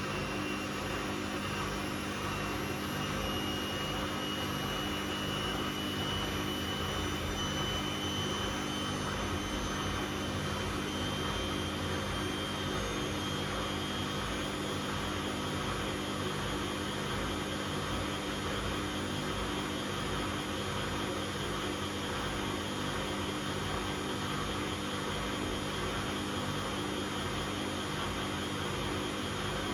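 Bosch Classixx 6 washing machine in its 600 rpm intermediate spin: a steady whirr of the spinning drum and motor, with a high motor whine that creeps slightly up in pitch during the first half.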